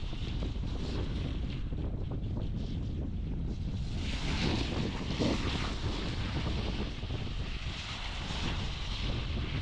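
Wind buffeting the camera microphone with a low rumble, over the hiss of surf on the shore that swells about four seconds in.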